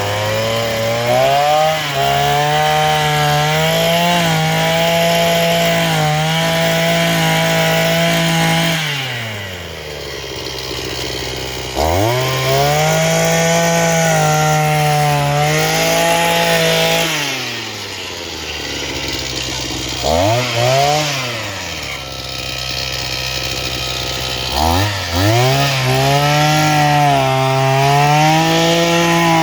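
Homelite petrol earth auger's two-stroke engine revving hard and holding high revs. It drops back to a low idle three times: after about nine seconds, again after about seventeen, and once more after a short blip of throttle. Near the end it revs up again.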